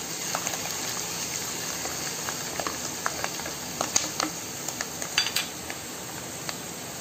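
Ginger-garlic paste frying in hot oil in a nonstick pot: a steady sizzle with scattered crackles and pops, and a silicone spatula stirring through it.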